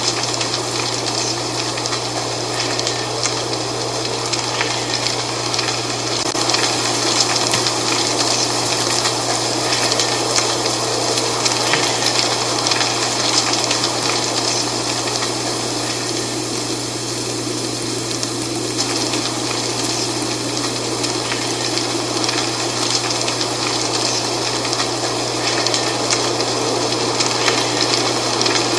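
Dry fall leaves rustling in the wind: a steady crackling hiss that swells slightly now and then.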